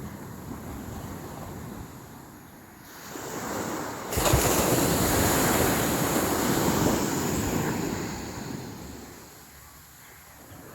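Sea waves on a beach: a wave builds, breaks about four seconds in and washes up loudly for several seconds, then fades away near the end.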